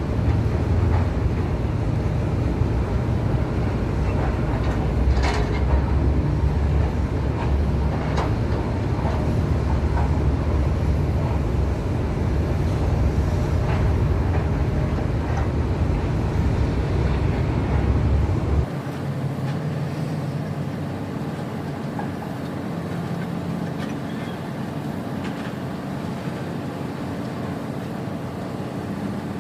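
Tugboat's diesel engine running with a heavy, steady low rumble, with a few clicks and knocks over it. About two-thirds of the way through it drops suddenly to a quieter, steadier running sound.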